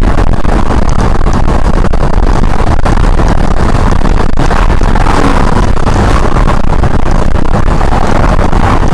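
Loud steady rumble of a vehicle driving, engine and road noise picked up inside the cab by a dashcam.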